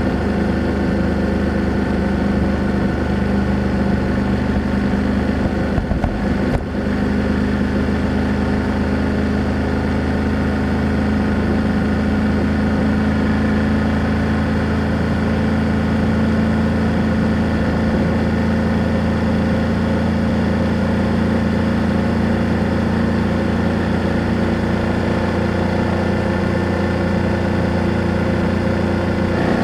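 BMW F800GS parallel-twin motorcycle engine and exhaust running steadily at a constant cruising speed, with a brief dip in the sound about six seconds in.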